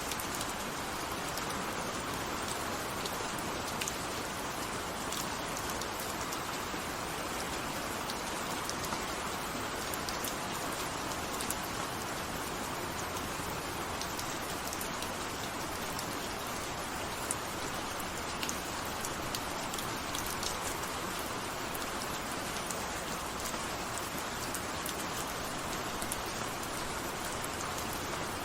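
Steady rain falling: an even hiss with many scattered sharp drop ticks on top.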